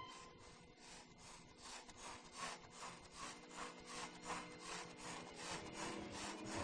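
Faint rhythmic scraping, about three even strokes a second, like sawing or brushing, over a faint steady low tone.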